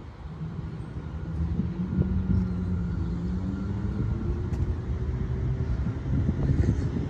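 A passing motor vehicle's engine hum, shifting slowly in pitch over several seconds, over wind rumble on the microphone.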